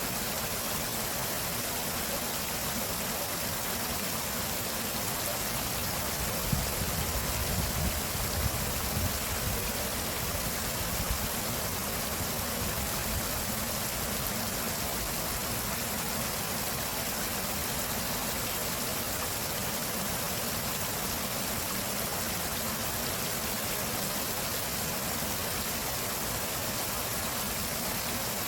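Steady rush of flowing stream water. A few low rumbling bumps come in between about six and eleven seconds in.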